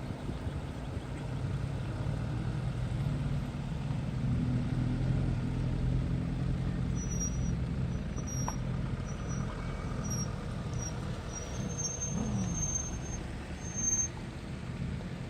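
Car engine running steadily, with a short falling pitch about twelve seconds in.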